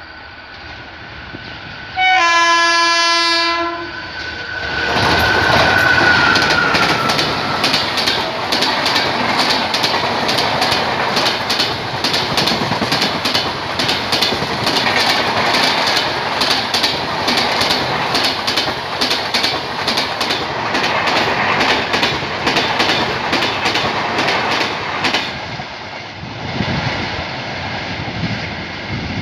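Express train's locomotive horn sounding one loud blast of about two seconds, then the train passing close by at speed. The wheels make a rapid clickety-clack over the rail joints, which fades near the end as the last coaches recede.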